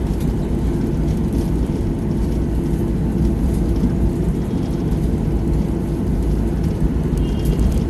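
Steady low rumble inside an Airbus airliner's cabin from its jet engines and the aircraft rolling on the ground after landing.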